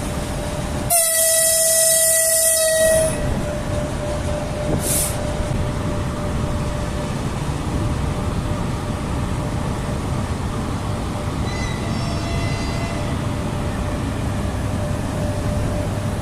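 Locomotive horn sounding one loud, steady blast about two seconds long, the departure signal of a passenger train, over a steady low rumble from the train; a fainter, brief horn note follows later.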